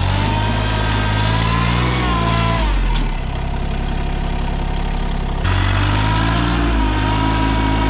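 RK24 24-horsepower compact tractor's diesel engine running under work, its note dipping and recovering twice, with a thin whine above it.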